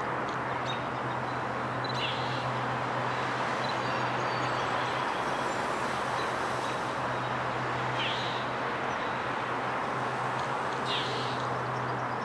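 Steady outdoor city traffic noise with a constant low hum beneath it. A bird gives a short falling chirp three times, about two, eight and eleven seconds in.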